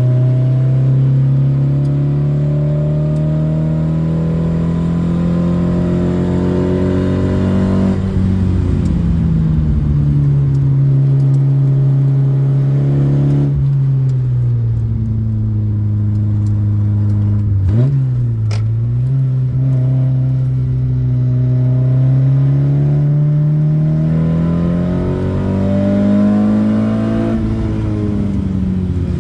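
Modified Škoda 130L's 1.3-litre four-cylinder engine on motorcycle carburettors, driven flat out uphill. The engine note climbs with the revs and drops sharply at gear changes about eight and thirteen seconds in and again near the end. Around eighteen seconds there is a brief dip with a sharp click.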